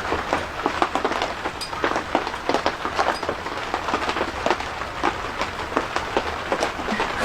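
Rain pattering on a surface, a steady hiss with many irregular sharp drop impacts.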